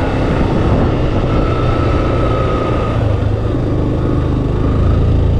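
Yamaha FZ V2 motorcycle's single-cylinder engine running steadily while riding slowly uphill, heard with a continuous low rumble through a helmet-mounted microphone.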